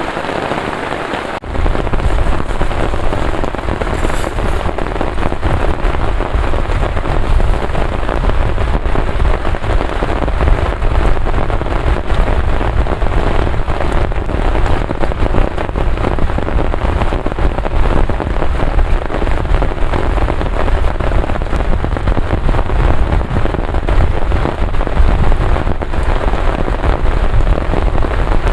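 Heavy rain pouring steadily, a dense hiss of drops. About a second and a half in, a deep low rumble joins and stays under it, and the whole sound gets louder.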